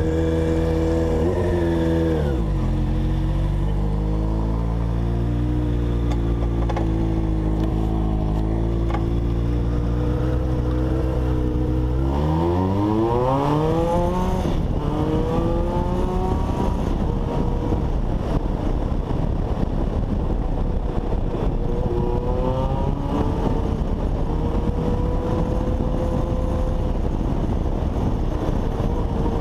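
Honda CBX 750 inline-four motorcycle engine on a test ride: the revs drop about two seconds in and hold low and steady, then it revs up hard about twelve seconds in and pulls away, its tone settling higher under a rushing noise.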